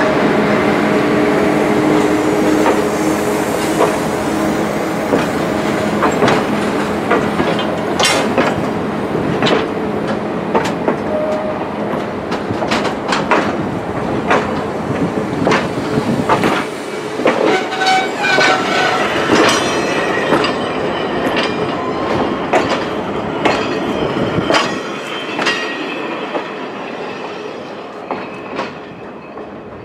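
Passenger train cars rolling past at close range: a steady rumble of steel wheels on the rails, broken by sharp clacks as the wheel sets cross rail joints. The sound fades over the last few seconds as the last car goes by.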